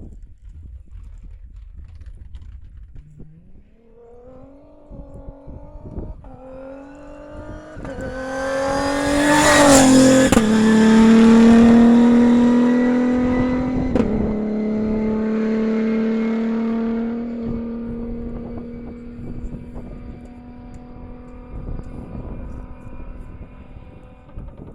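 Rally-raid competition car accelerating toward the listener with its engine climbing in pitch. It passes loudest about ten seconds in with a sudden drop in pitch, then holds a steady engine note and fades as it drives away.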